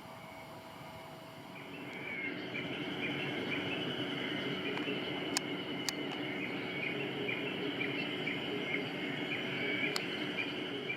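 Calling animals: a steady high trill with short chirps repeated about twice a second, starting about two seconds in, with a few sharp clicks.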